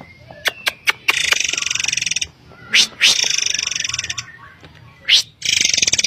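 Murai air (forktail) calling in a repeating phrase: a sharp, thin, upslurred whistle, then a high rasping buzz lasting about a second. The phrase comes three times, with a few quick short notes before the first buzz.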